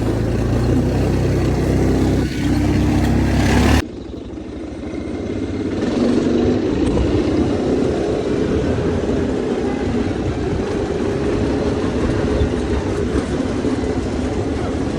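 A motor vehicle's engine running, with an abrupt change about four seconds in, after which the engine sound is quieter and rises again.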